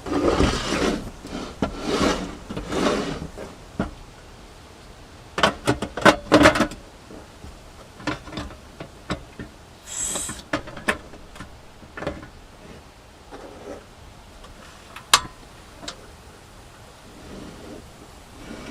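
Objects being handled at close range: several scrapes and rubs in the first few seconds, then a quick run of sharp clicks and knocks, a short hiss about ten seconds in, and a single sharp click later.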